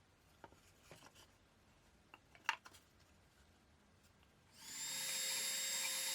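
A few light handling clicks and taps, one sharper knock, then a small electric power-tool motor spinning up and running at a steady high-pitched whine.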